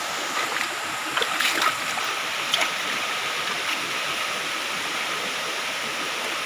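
Waterfall water rushing steadily, with a few brief clicks in the first three seconds.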